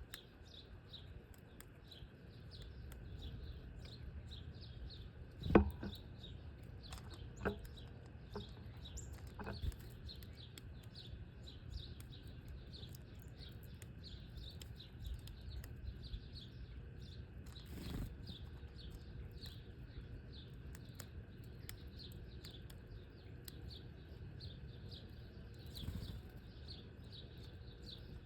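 Small birds chirping over and over, a steady run of short high chirps several a second, with a few sharp knocks, the loudest about five seconds in.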